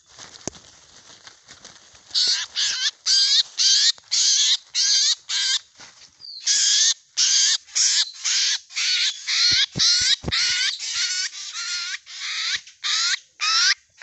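A black, crow-like bird down on the ground giving loud, harsh calls over and over, about two to three a second, starting about two seconds in: the alarm or distress calls of a hunted bird. A few low knocks sound about ten seconds in.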